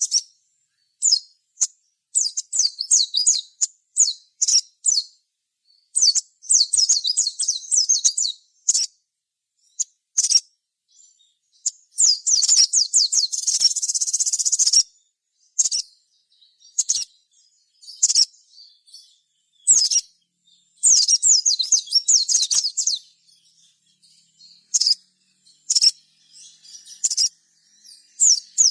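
Sogon sunbird singing: bursts of high, rapid twittering trills broken by short pauses, with a harsher buzzy stretch about halfway through.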